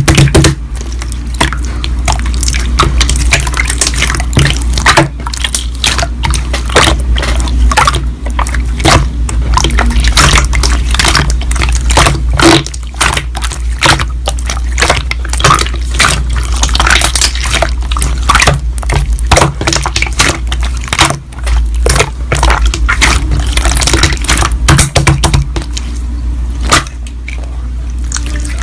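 Slime being squeezed and kneaded by hand, making a dense, irregular run of wet clicks, pops and squelches.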